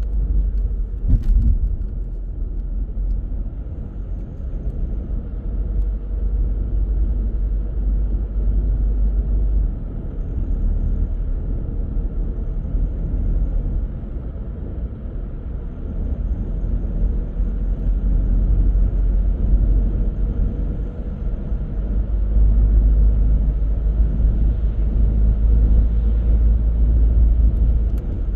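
A car driving along a road: steady low rumble of tyres and engine, with a short knock about a second in and the rumble growing a little louder near the end.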